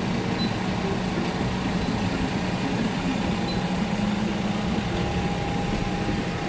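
City street noise carried by a motor vehicle's engine running steadily, a low even hum with no sudden events.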